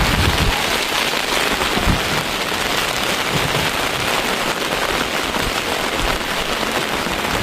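Steady rain falling on surfaces, an even, continuous patter.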